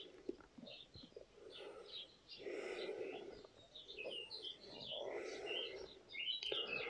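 Faint birdsong: scattered short chirps and tweets from small birds.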